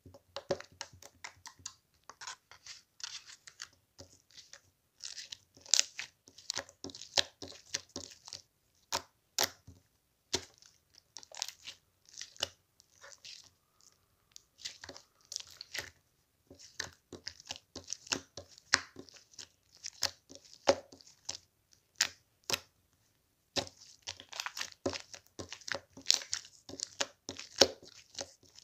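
Slime being squished, stretched and pressed by hand: sticky crackling with sharp popping clicks, coming in bursts with a couple of brief pauses.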